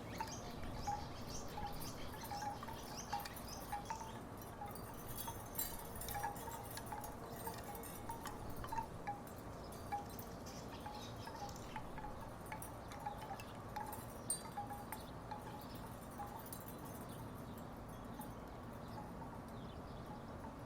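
Wooden tiki wind chimes knocking together irregularly, several knocks a second, thinning out over the last few seconds, over steady background noise.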